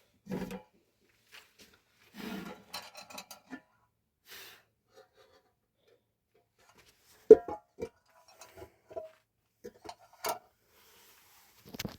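Irregular rubbing, scraping and knocking of things being handled by hand, with one sharp knock about seven seconds in.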